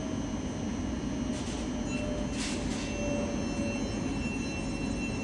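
LNER Azuma high-speed train passing through the station without stopping: a steady rumble of wheels on rail, with a faint thin whine that comes in about two seconds in.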